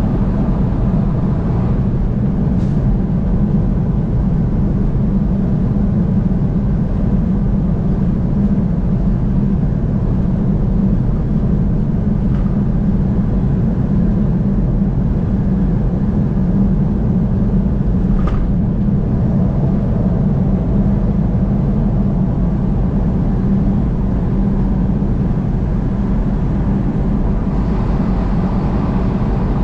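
Steady low rumble of a car driving at highway speed: tyre and engine noise, with a couple of faint ticks.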